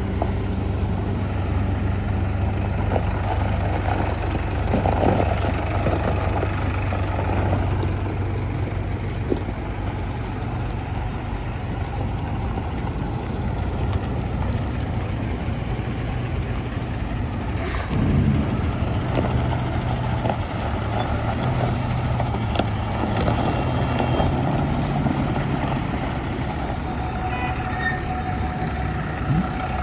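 Heavy diesel engines of a backhoe loader and tipper trucks running steadily, with a sudden sharp noise about eighteen seconds in.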